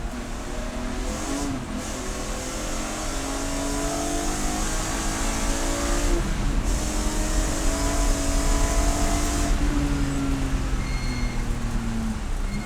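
Race car engine under load, its pitch climbing, dropping about six seconds in, and climbing again before falling away near the end, over steady wind and road noise.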